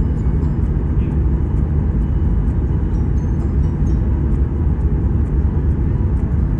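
Steady low rumble of a jet airliner's cabin noise, engines and airflow heard from inside the passenger cabin.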